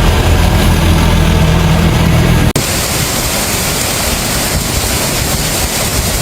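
A vehicle engine running with a steady low hum, then a sudden cut about two and a half seconds in to a steady rushing noise.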